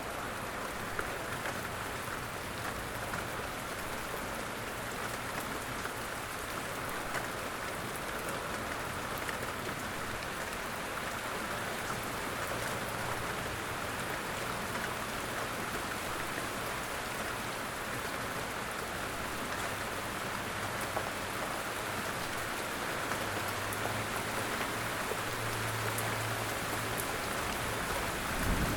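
Steady light rain falling in a forest, drops pattering on leaves and ground. There is a brief low thump at the very end.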